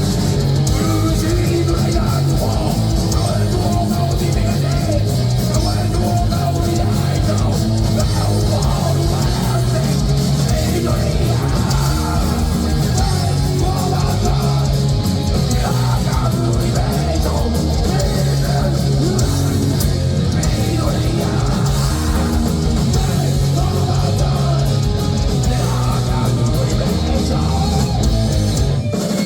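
Heavy metal band playing live: distorted electric guitars over bass and drums in a loud, continuous wall of sound.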